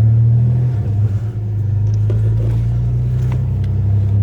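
Truck engine running with a steady low drone, with a few faint clicks and rattles over it.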